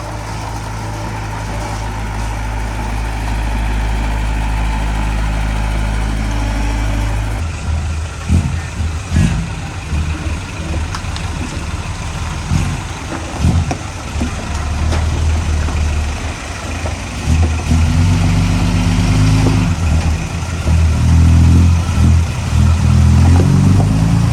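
Heavy diesel earthmoving machinery running. A steady engine note changes abruptly about seven seconds in to an uneven, labouring engine with low knocks. The engine revs up and down repeatedly near the end.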